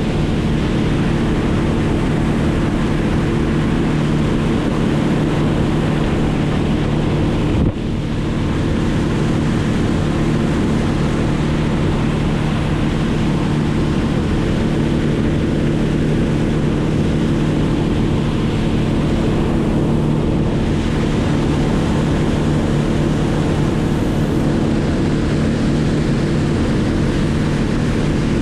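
A motor running steadily at a constant speed, with wind noise on the microphone. It dips briefly about eight seconds in.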